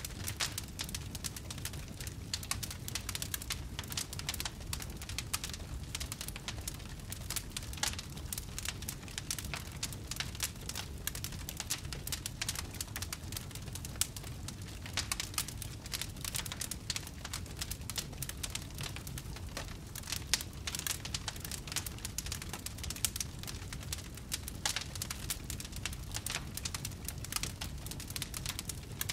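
Wood fire crackling and popping, with dense irregular snaps over a steady low rumble of flames.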